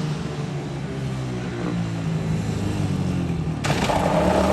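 A 125cc four-wheeler (ATV) engine running as it is ridden, its steady note slowly growing louder. About three and a half seconds in, the sound suddenly gets brighter and louder.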